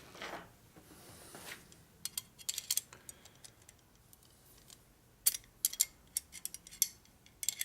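Irregular sharp metallic clicks and clinks of hand tools and metal fittings being handled and worked on, in clusters about two seconds in and again from about five seconds on.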